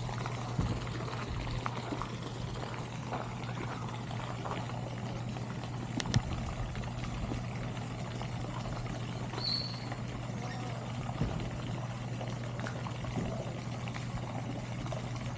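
Steady pouring, trickling water, with a low steady hum underneath. A sharp click comes about six seconds in and a brief high chirp about nine seconds in.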